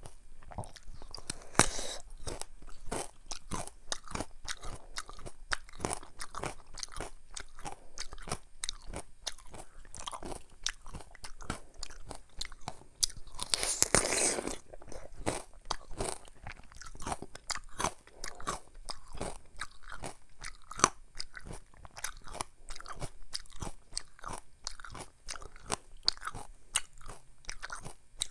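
Crunching and chewing of a mini Korean melon (chamoe) bitten straight from the fruit with its rind on, many small crisp bites close to the microphone. About halfway through there is one longer, noisier bite.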